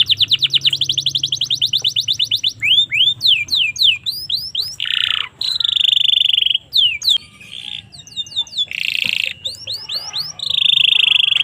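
Domestic canary singing: a fast trill of rapidly repeated falling notes, then slower falling whistles broken by several buzzy rolled phrases.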